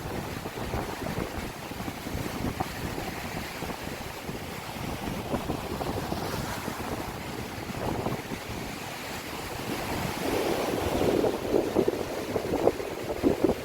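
Sea waves washing on the shore, with wind buffeting the microphone in irregular gusts that grow louder about ten seconds in.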